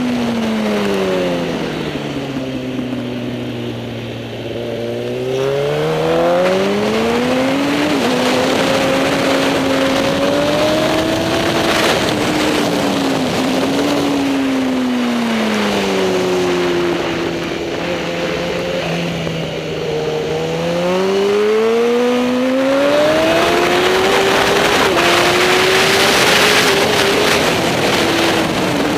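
Superbike engine at racing speed, dropping in pitch as it slows for a corner, then revving back up through the gears with short dips at each upshift; this happens twice.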